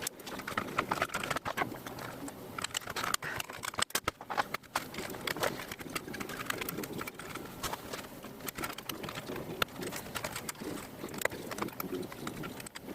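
Irregular small clicks and knocks from hands and tools handling the plastic and metal parts of a video cassette recorder's mechanism during reassembly.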